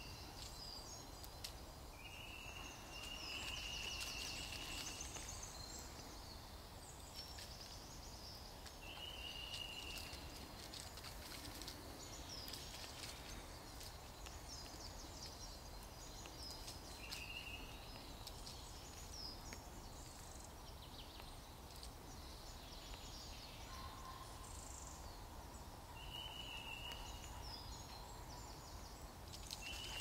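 Woodland birds calling: a short, steady high note repeats every several seconds, with scattered higher chirps over a faint background hiss.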